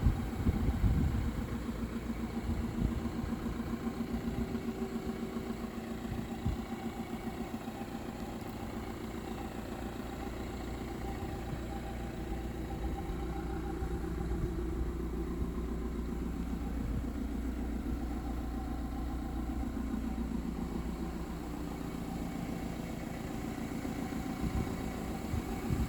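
Fiat Doblo's 1.6 JTD four-cylinder turbodiesel engine idling steadily, with a few knocks in the first second.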